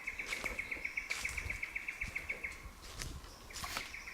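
Rapid, even trill at one high pitch, about ten pulses a second, from some sort of bird; it breaks off about two and a half seconds in and starts again a second later, with a few faint clicks.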